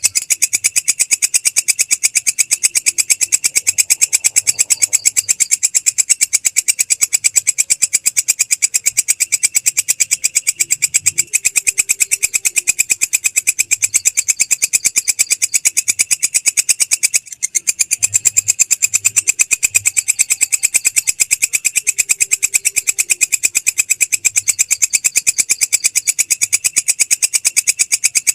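Belalang krek, a grasshopper-type insect, stridulating: a loud, continuous, rapidly pulsing high buzz, with one brief break about seventeen seconds in.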